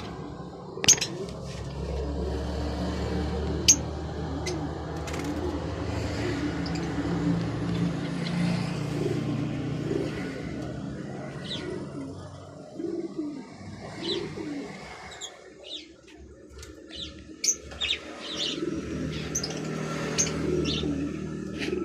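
Many caged birds calling together: doves cooing, with sharp high chirps scattered over it, and a low steady hum through the first half.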